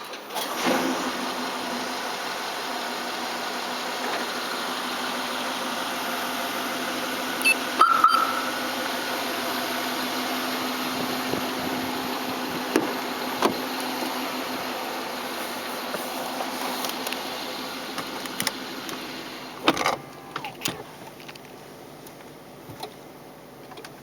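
BMW X6 ActiveHybrid's twin-turbo V8 started by a remote engine starter, starting about half a second in and running steadily, then shutting off about 20 seconds in, with a few sharp clicks along the way.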